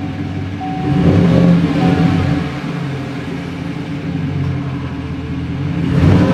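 Chevy Silverado V8's exhaust through a Flowmaster Super 40 Series Delta Flow muffler with a straight pipe in place of the resonator. The engine idles and is revved twice, about a second in and again near the end.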